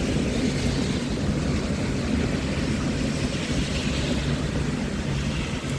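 Thunderstorm noise: a steady low rumble under a hiss of wind and rain.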